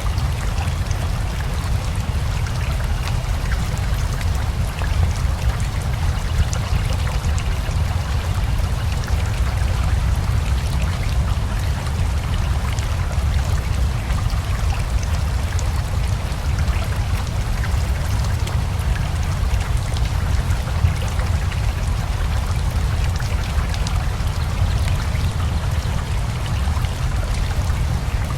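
Steady rain falling together with a rushing river: a constant wash of water with a deep rumble underneath and many small drop ticks on top, unchanging throughout.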